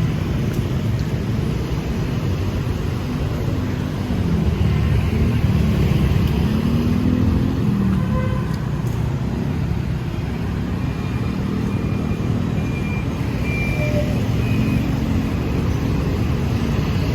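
City street traffic: motor vehicles running past with a steady low rumble of engines and road noise.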